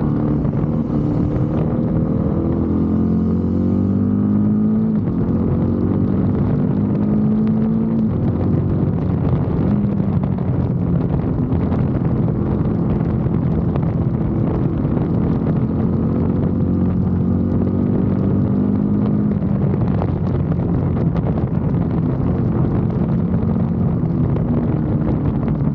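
BMW F850 GS motorcycle's parallel-twin engine running steadily, its pitch falling and rising several times as engine speed changes.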